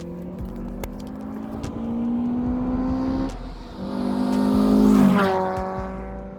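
A car accelerating hard. The engine revs climb, break off at a gear change about three seconds in, then climb again. The pitch drops sharply as it passes close by about five seconds in, its loudest moment.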